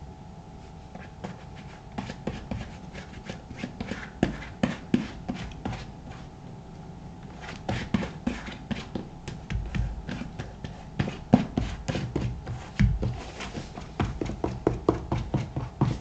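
Shoe cream being worked into a black leather Thorogood moc-toe boot: many short, irregular rubbing and tapping strokes, with a quieter stretch about six seconds in. A faint steady hum underneath.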